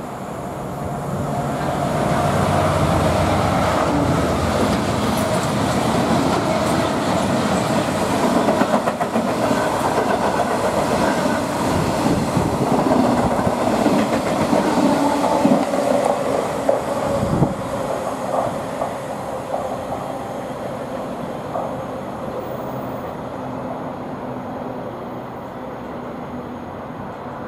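Class 68 diesel-electric locomotive with a Caterpillar V16 engine passing at speed, its engine loudest in the first few seconds. A long train of freight wagons follows, clattering over the rails with sharp wheel clicks. The sound fades over the last several seconds as the train goes away.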